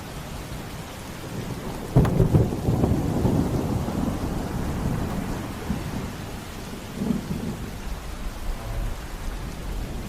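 Thunderstorm: a sudden thunderclap about two seconds in that rolls on for several seconds, then a smaller rumble around seven seconds, over steady rain.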